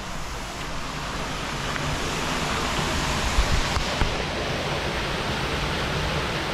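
Aira Force waterfall rushing: a steady wash of falling water that grows louder over the first couple of seconds.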